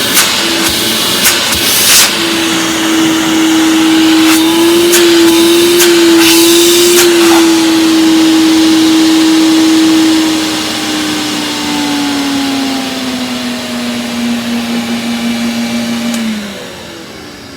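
Vintage Hoover vacuum cleaner running with a steady motor whine, with several sharp clicks in the first few seconds. From about ten seconds in the whine sinks in pitch, and near the end the motor cuts out and winds down.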